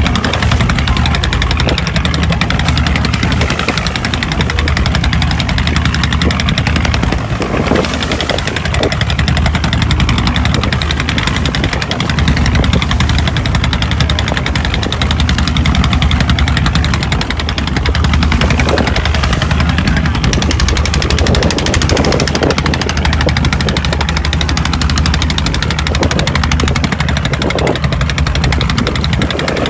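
Boat engine running steadily at speed with a rapid, even knock, under a constant hiss.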